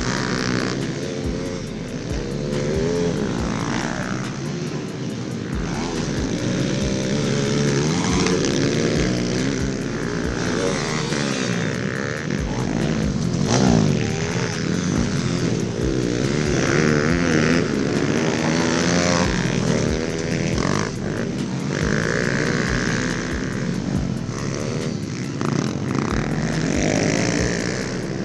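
Several small pit bike engines revving up and down together, pitch rising and falling as the riders work the throttles and shift.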